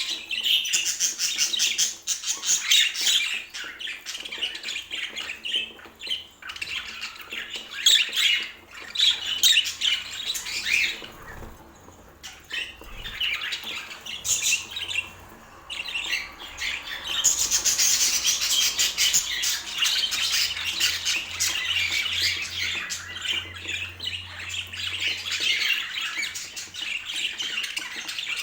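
Budgerigar chattering: a dense stream of fast chirps and squawks. It quiets for a few seconds about halfway through, then picks up again.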